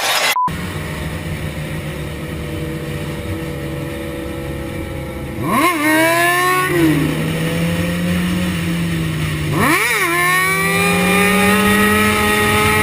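Motorcycle engine running steadily, revved sharply about halfway through and settling back, then revved again near the ten-second mark and held at a higher, slowly rising speed.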